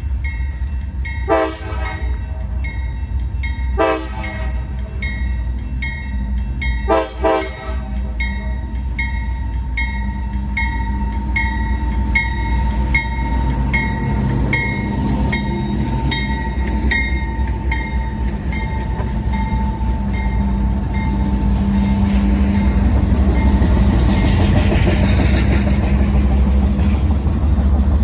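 Train horn sounding three short blasts in the first eight seconds over a bell dinging about twice a second, then a passing train's rumble building louder toward the end.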